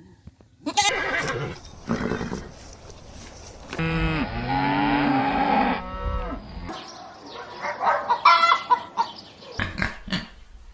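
Farm animal calls in quick succession, among them a long low cow moo lasting about two seconds, starting about four seconds in. Shorter, higher animal calls follow near the end.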